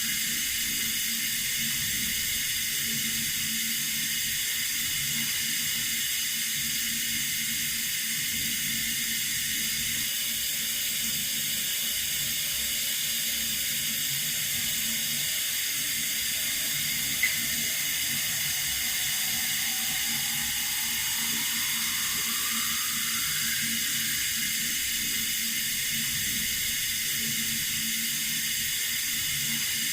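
Running water, a steady even hiss with a faint low hum beneath it and a single small click a little past halfway.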